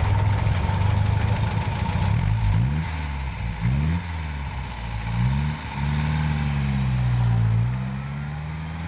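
Car engine under way, heard from inside the car, its pitch rising and falling a few times as it accelerates, then settling into a steady cruising note.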